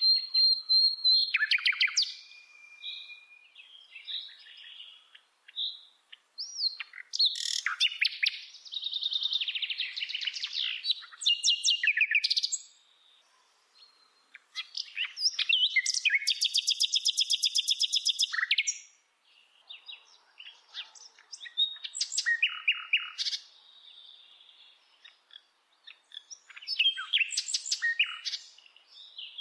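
A songbird singing a varied run of phrases: clear whistles, fast trills and rapidly repeated notes, with short pauses between phrases.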